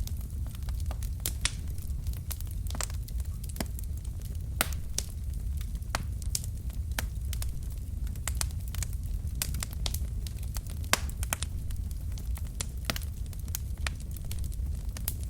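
Wood logs burning in a fireplace: a steady low rumble of the flames under frequent, irregular sharp crackles and pops, one pop about eleven seconds in standing out louder than the rest.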